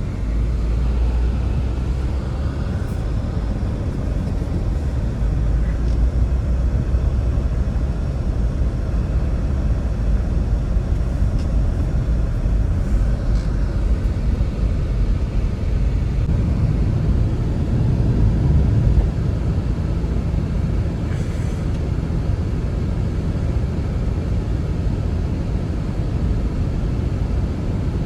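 Blizzard wind blowing with a steady low rumble, buffeting the microphone.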